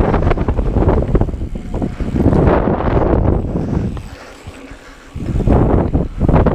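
Wind buffeting the microphone of a camera riding on a mountain bike, mixed with the rattle of the bike rolling over rough trail. It eases off for about a second, a little past halfway.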